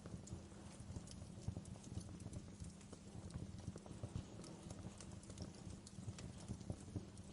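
Wood fire crackling in a fireplace: a dense, continuous low crackle with scattered sharper pops.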